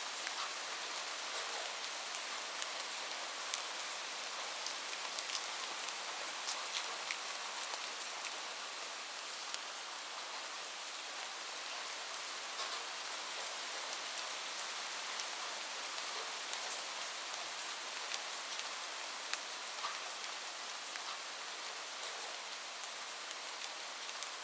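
Steady rain falling on a roof, a continuous hiss with many individual drops ticking on the surface.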